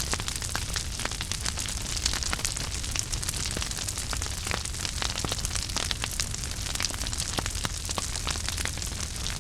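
Wood fire burning in a fireplace: a steady low rumble and hiss of the flames with frequent sharp, irregular crackles and pops.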